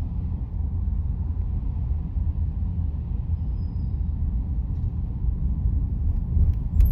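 Low, steady road and tyre rumble of a car driving, heard inside the cabin, with a single sharp click near the end.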